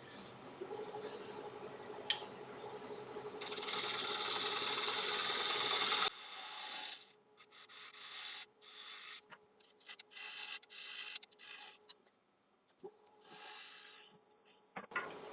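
Spindle gouge cutting an Iroko blank spinning on a wood lathe, a steady scraping hiss over the lathe's whine that builds for about six seconds. It then breaks off into short separate cuts with gaps between them.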